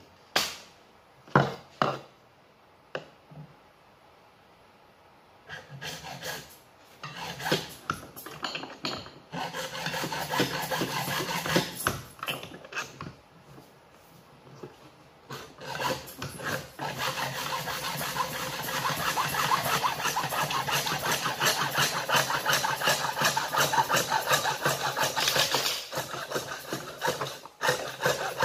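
A few sharp knocks, then a saw cutting through PVC pipe with quick, steady back-and-forth strokes that become continuous from about ten seconds in.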